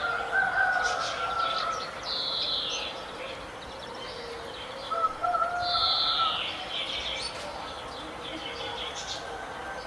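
Several birds calling and singing together: a busy mix of short high chirps, with two louder phrases that slide down in pitch and lower held whistles now and then.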